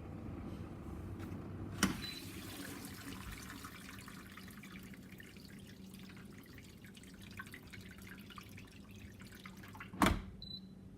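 Samsung dishwasher running a Normal 50 °C wash: a steady low motor hum with water splashing and dripping inside the tub. A sharp click about two seconds in and a louder knock near the end.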